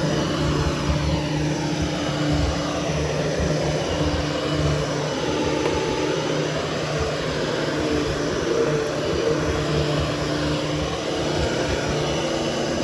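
Hoover Hushtone 13-inch upright vacuum running steadily, grooming carpet. Its hum holds steady while its higher tones waver slowly up and down.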